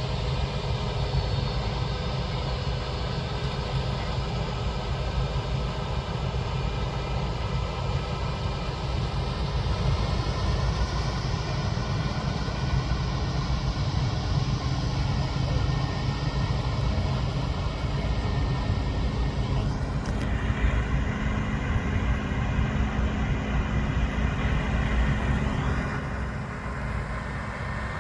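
Heavy harvest machinery running steadily: the diesel engines of combine harvesters and a tractor working a wheat field. The pitch shifts about two-thirds of the way through, and the sound drops slightly near the end.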